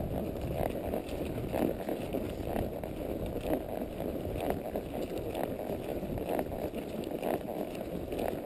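A horse walking on a woodland trail: soft hoof footfalls about once a second over a steady low rumble of movement and rustling.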